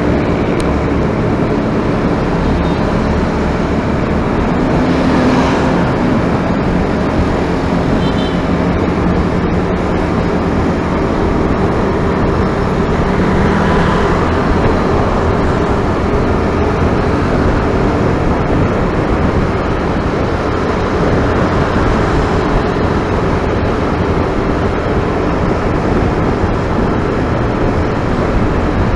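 Steady running noise of a vehicle on the move, engine hum under a constant road and wind rush.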